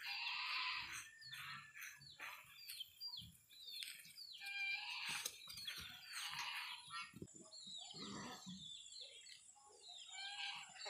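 Birds chirping and calling, many short, falling calls overlapping throughout.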